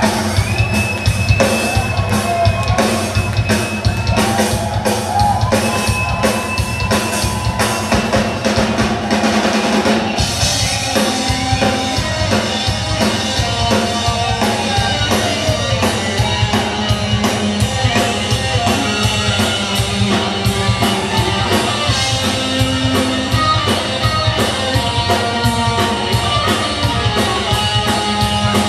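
Live hard-rock band playing an instrumental passage: a drum kit keeps a steady beat under electric guitars, with no singing. About ten seconds in, the cymbals open up and the sound becomes brighter and fuller.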